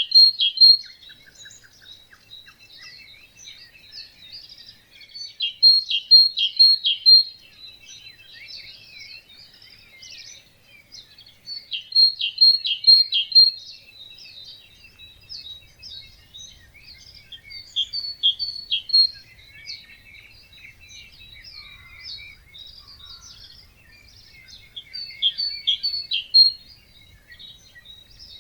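Birds singing in a dawn chorus. One bird repeats a loud, short song phrase of several quick notes about every six seconds over a steady background of other birds' chirps and calls.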